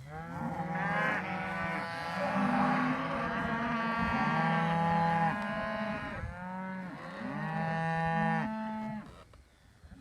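A herd of cattle mooing, several animals calling at once with overlapping long moos at different pitches, dying away about a second before the end.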